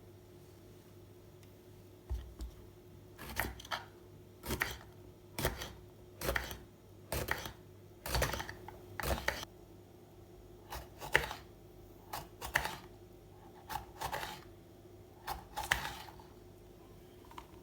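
Food being prepared by hand in the kitchen: a regular run of short strokes, about one a second, that starts a couple of seconds in and stops near the end.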